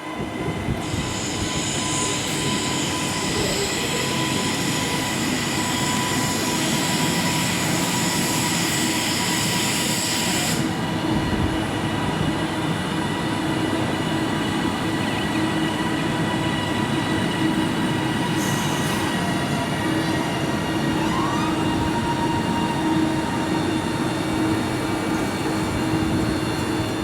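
Passenger train running along the platform: a steady, loud rumble with held whining tones. A high hiss over the top cuts off abruptly about ten seconds in.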